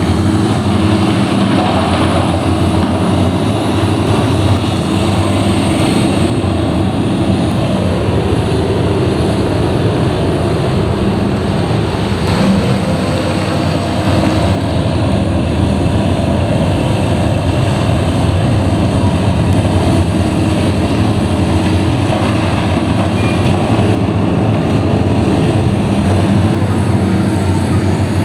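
Heavy diesel mining machinery running steadily: the engines of a haul truck and excavator at work, a loud continuous engine sound with several low held tones.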